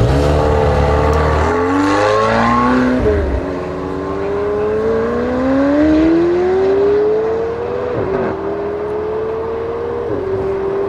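Twin-turbo V8 of a tuned McLaren 720S with a Capristo exhaust accelerating hard. The engine note climbs steadily in pitch and drops sharply at each upshift, about three, eight and ten seconds in.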